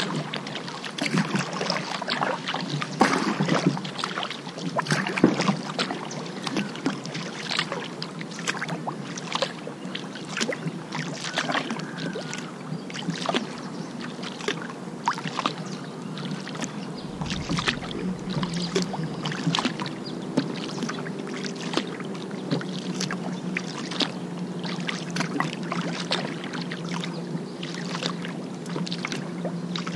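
Kayak paddling: irregular paddle strokes with water splashing and dripping. A steady low hum joins in about two-thirds of the way through.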